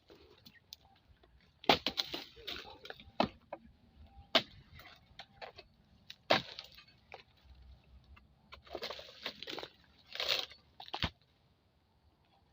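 Irregular sharp cracks and knocks mixed with bursts of rustling: stiff oil palm fronds being cut and pulled away during harvesting.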